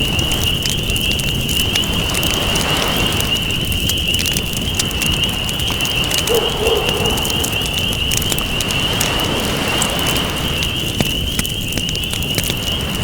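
Wood fire crackling and popping over the steady rush of ocean waves, which swell and ease every few seconds. A steady high-pitched tone runs underneath, and a short low call sounds about six seconds in.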